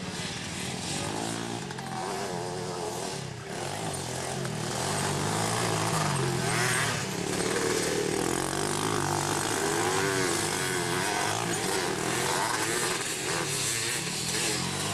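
Several three-wheeler ATC and youth quad engines racing around a motocross track, each revving up and down as it accelerates and backs off, getting a little louder about five seconds in.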